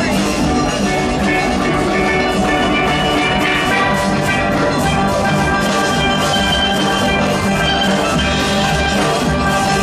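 A full steel band playing: many steel pans ringing out the melody and harmony over a steady drum and percussion rhythm section.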